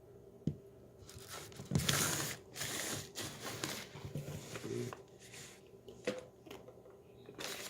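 Crinkling and rustling of packaging as tapioca starch is handled and packed, in irregular bursts with a few sharp clicks.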